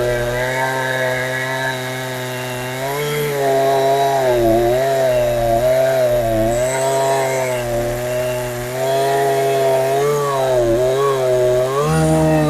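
Two-stroke engine of a Chinese Husqvarna 372XP clone chainsaw, fitted with a genuine carburettor, running loud and steady. Its pitch repeatedly dips and recovers, as under cutting load in wood.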